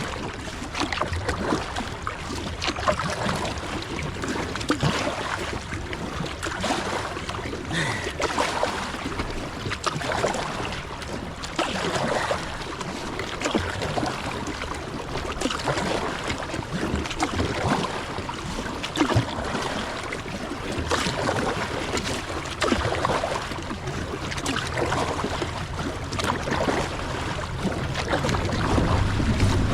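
Fast river current rushing and splashing around a kayak being paddled through rough water, with frequent irregular splashes.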